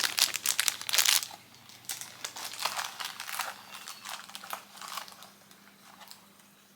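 Wrapping being crumpled and rustled by hand: a burst of crinkling over the first second or so, then softer, irregular rustling that fades out.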